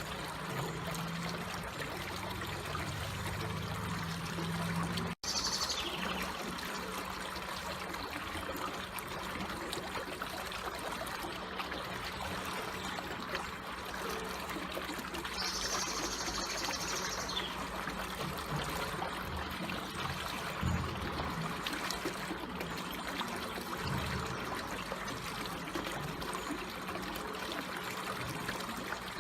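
Water trickling and flowing slowly and steadily. The sound drops out for a split second about five seconds in, and faint high calls stand out briefly after the dropout and again near the middle.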